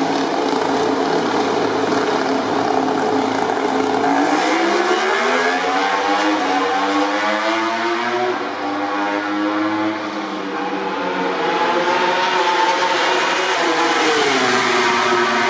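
MotoGP prototype race motorcycles with 1000 cc four-cylinder engines running hard at high revs, loud throughout. The pitch slides down around the middle and climbs again near the end.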